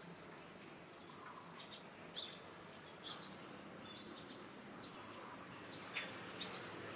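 Faint chirping of small birds: short, high calls scattered about once a second over a light background hiss, the loudest about six seconds in.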